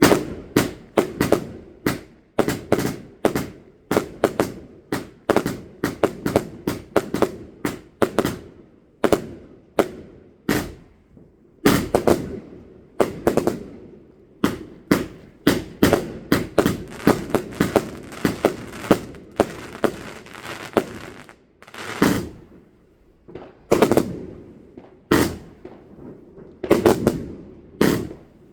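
Fireworks going off in a long, irregular run of sharp bangs, a few each second, each leaving a short echoing tail. There are brief lulls, around two seconds in and again in the second half, typical of a multi-shot firework barrage.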